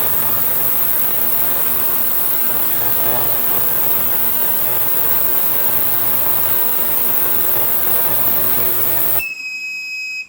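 10-litre ultrasonic cleaner running: a loud, steady buzzing hiss with many steady tones in it. About nine seconds in it stops abruptly at the end of its timed cycle, and a single high beep sounds for about a second.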